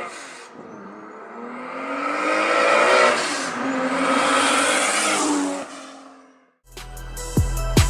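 Toyota Supra's straight-six engine accelerating hard as the car approaches, the engine note rising through the revs, staying loud while it passes, then fading away about six seconds in. Music with drum beats starts near the end.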